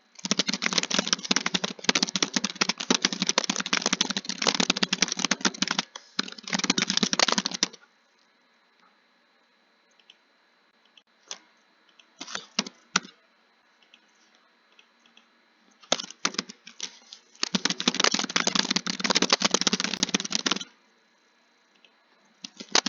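Fast typing on a keyboard: long runs of rapid key clicks for the first several seconds and again for about four seconds later on, with a pause of a few scattered keystrokes between.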